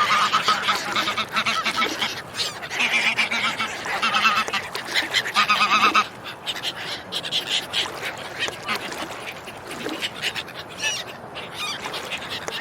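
Ducks and other waterfowl calling, quacks and honks overlapping. The calling is loud for about the first six seconds, then carries on more softly.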